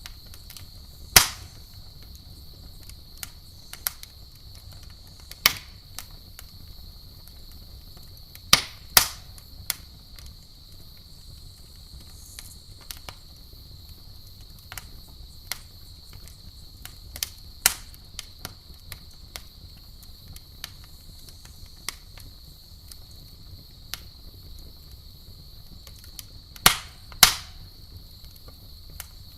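Campfire crackling, with sharp irregular pops from the burning wood, a few much louder than the rest, two coming in quick pairs. Behind it runs a steady high insect trill.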